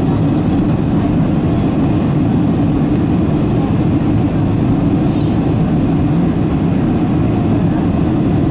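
Steady low roar of cabin noise inside a Boeing 777-200 airliner: its jet engines and the airflow over the fuselage.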